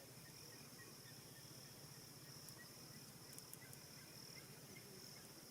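Near silence: faint open-air bush ambience with a steady high-pitched whine and a few faint, scattered chirps.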